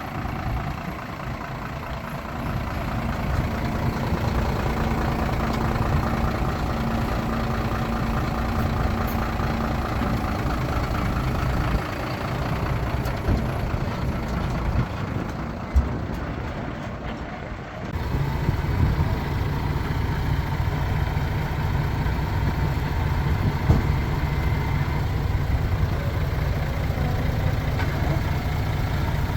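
Heavy diesel earthmoving machinery, dump trucks and a bulldozer, running steadily, with a couple of sharp knocks. The engine sound changes abruptly about eighteen seconds in.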